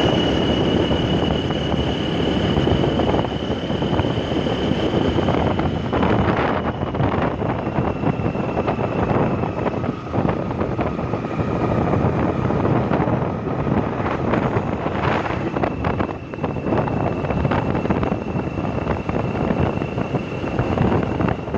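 Wind buffeting the microphone on a moving motorcycle, over steady road and engine noise with a faint high whine.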